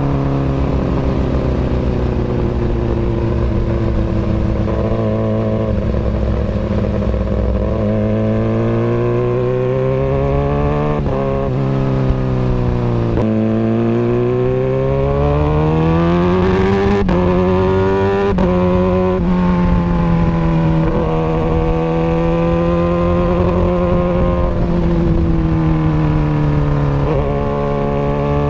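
Kawasaki Ninja ZX-636 inline-four running loudly through an aftermarket Austin Racing exhaust. The engine speed holds fairly steady, drops sharply and climbs back twice near the middle with a few short pops, then rises higher and settles.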